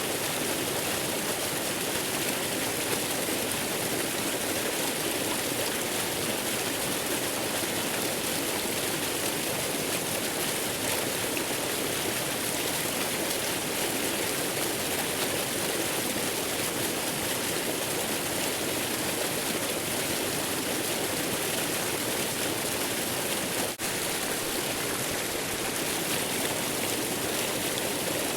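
Steady rushing water of a waterfall, an even, unbroken hiss, with a momentary dip in level about 24 seconds in.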